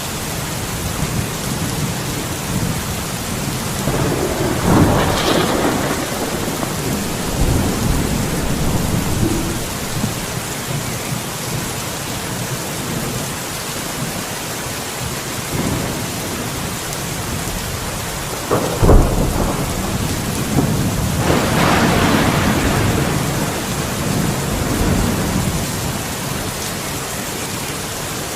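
Steady heavy rain with thunder: a rumble about five seconds in, then a sharp crack near nineteen seconds followed by a long rumble.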